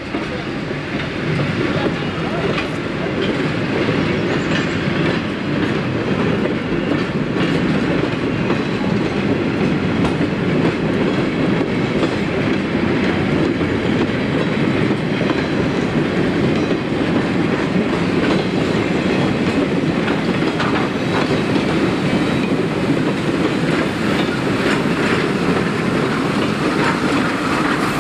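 Open passenger cars rolling slowly past, their wheels clicking and clattering over the rail joints. Near the end, the Shay geared steam locomotive pushing the train comes alongside.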